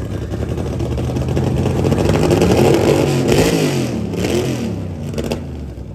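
Fox-body Ford Mustang's engine revved hard through a loud exhaust. The pitch climbs to a peak about three seconds in, dips, rises again briefly, and falls back near the end.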